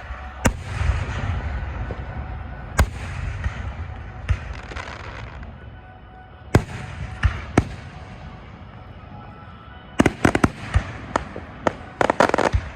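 Fireworks display: single bangs every second or two, each trailed by a low rolling echo, then a rapid run of crackling pops near the end.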